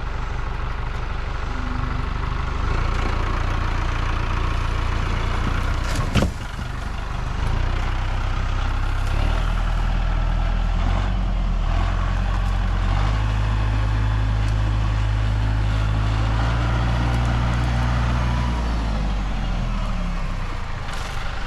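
Tractor engine running steadily under load, its pitch shifting up and down in steps several times as the throttle and load change. A single sharp knock about six seconds in.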